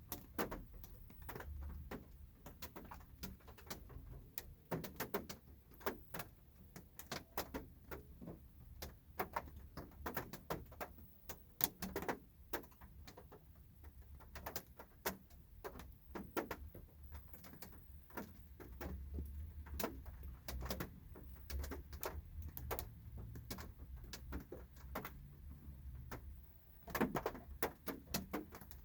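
Light rain heard from inside a car: scattered raindrops tapping irregularly on the roof and glass, over a low steady hum.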